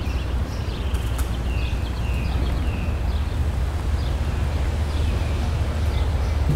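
A CSX diesel-electric locomotive running light engine: a steady low engine rumble that grows slightly louder as it draws nearer, with short high chirps above it.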